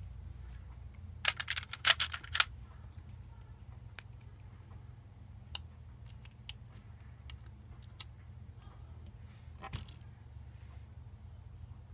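Small hard parts being handled: a quick cluster of sharp clicks and knocks about a second in, then a few scattered single clicks, over a steady low hum.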